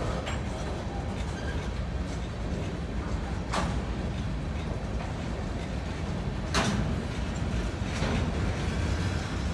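Covered hopper cars of a long freight train rolling past, a steady low rumble of steel wheels on rail. A few sharp clacks come as wheels cross rail joints, the loudest about two-thirds of the way through.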